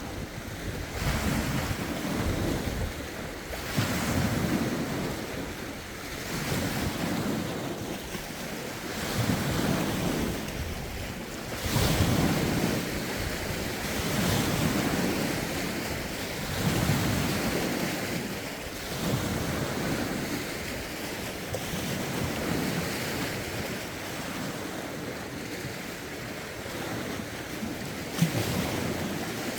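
Lake waves washing in, rough wind driving them, with a surge every two to three seconds. Wind rumbles on the phone's microphone.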